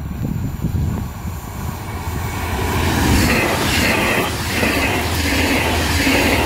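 DB Regio double-deck regional train on an electrified line approaching and passing close by. The wheels rumble on the rails, getting louder from about halfway through, and as the coaches go by there is a rhythmic clatter roughly once a second.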